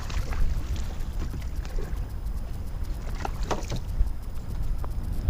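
Water sounds around a kayak on open water, with wind rumbling on the microphone and a few short, sharp splashes or knocks about three to three and a half seconds in.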